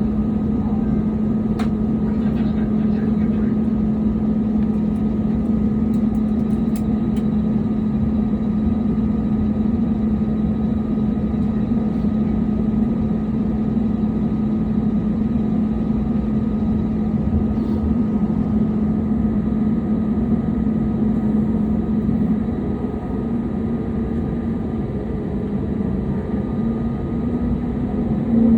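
Steady drone inside an airliner cabin on the ground before takeoff, from the engines and cabin air system, with a constant low hum and a faint higher tone.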